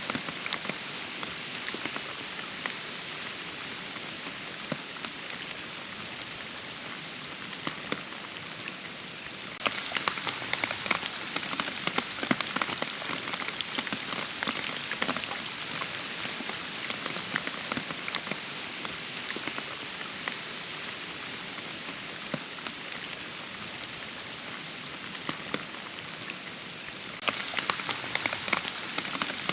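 Steady rain with many individual drops striking close by. About a third of the way in it abruptly becomes louder and denser with sharper drop hits, and near the end it steps up again.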